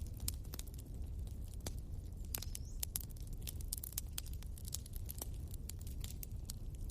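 Wood bonfire crackling: many sharp irregular pops and snaps over a low, steady rumble.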